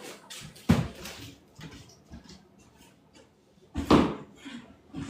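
Household items being handled and set down: two solid knocks, about a second in and again about four seconds in, with lighter clicks and rustling between.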